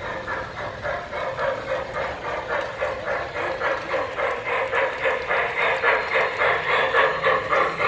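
Rhythmic chuffing of a model steam locomotive's sound system, about four beats a second, growing louder toward the end.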